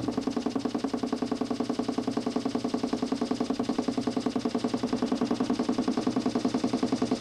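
DC motor spinning a large plywood Nipkow disc in a homemade mechanical television, a steady hum with a fast, even pulsing of about ten beats a second.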